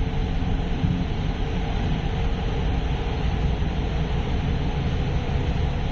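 Train running along an elevated track, heard from inside the front car: a steady, even running noise with no distinct rhythm.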